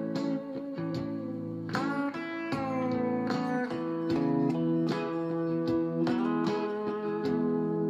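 Electric guitar, a Fender Telecaster, played through a hand-built Tweed Champ 5F1 tube amp: picked single notes with bends and slides sounding over steady lower held notes.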